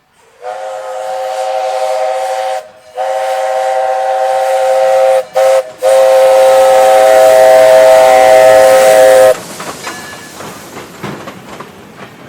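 Steam whistle of Lehigh Valley Coal 0-6-0T saddletank No. 126 blown in four blasts, long, long, short, long: the grade-crossing signal. After the last blast cuts off, about nine seconds in, the train is heard rolling with wheels clicking over rail joints.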